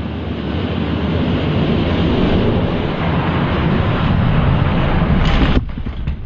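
Diecast Hot Wheels monster trucks rolling fast down a track, a loud rushing rumble that grows and cuts off suddenly about five and a half seconds in.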